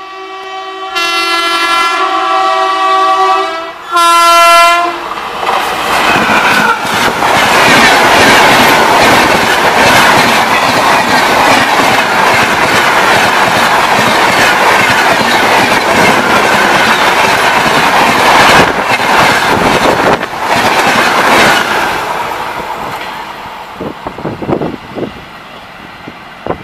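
WAP-4 electric locomotive horn: one long blast, then a short one. Then the Duronto Express runs through at speed, a loud rush of wheel-and-rail noise from the passing coaches, which fades as the train pulls away near the end.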